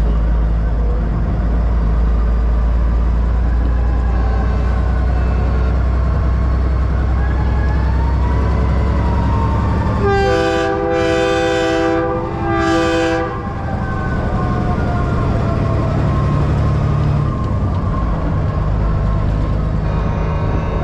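Diesel semi-truck engine running steadily under way. About ten seconds in, a multi-chime train-style air horn on a truck blows three blasts: a short one, a longer one of about a second, then a third.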